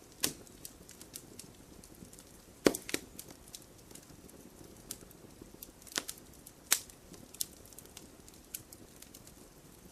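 Wood fire crackling, with a handful of sharp pops scattered through, the loudest about three seconds in.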